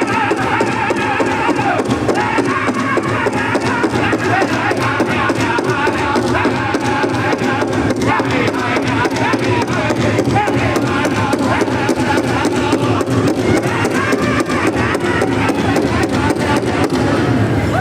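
Powwow drum group playing a contest song: a steady, even beat on a large drum with several voices singing together over it.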